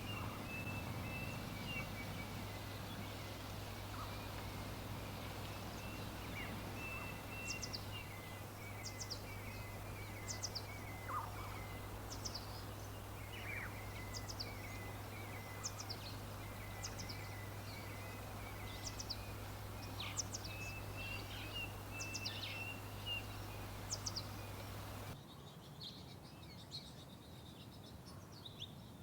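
Small birds chirping: a string of short, sharp falling chirps with a lower, chattering call between them, over a steady low background hum. About 25 seconds in, the background changes abruptly: the hum drops away and the chirps go on more faintly.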